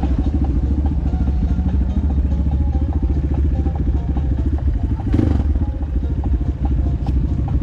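PROGASI SUPER MAX 250 enduro motorcycle engine running steadily at low revs, with an even, rapid firing pulse. A short burst of noise cuts across it about five seconds in.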